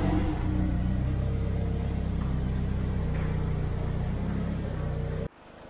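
Turbocharged Mazda 6 2.3-litre four-cylinder running steadily at idle through its new welded exhaust, quiet. The sound cuts off suddenly near the end.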